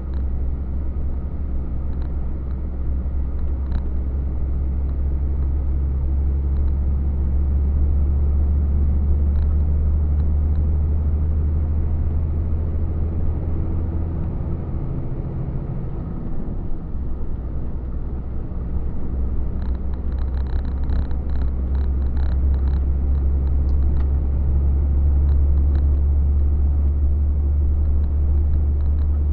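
Truck engine and road noise heard from inside the cab while driving: a steady low drone that dips briefly a little past halfway. Small rattling ticks come in soon after.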